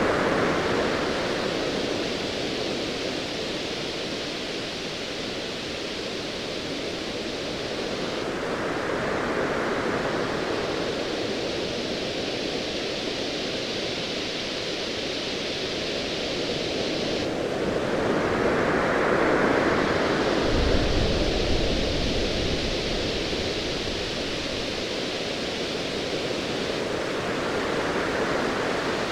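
Ocean waves washing in steadily, each surge swelling about every nine or ten seconds. A low, distant thunder rumble comes in about two-thirds of the way through and lasts a few seconds.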